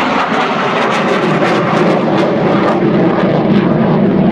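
CF-18 Hornet fighter jet's engines roaring on a pass over the airfield, a loud steady jet roar with a crackle through it.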